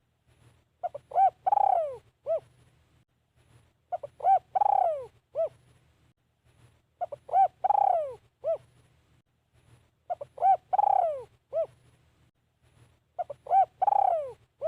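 Spotted dove cooing its song five times, about every three seconds. Each phrase is two short coos, a long coo that falls in pitch, then one short coo.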